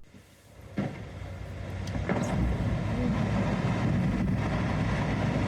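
Iceberg breaking apart: a deep, low rumble that swells over the first couple of seconds and then holds loud and steady.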